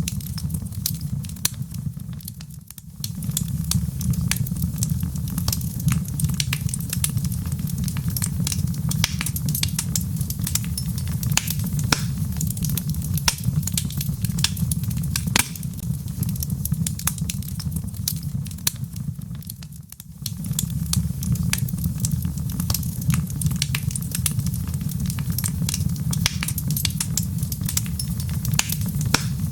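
Wood logs burning in a fireplace, crackling and popping sharply over a steady low rumble of flame. The sound dips briefly twice, about three seconds in and about twenty seconds in.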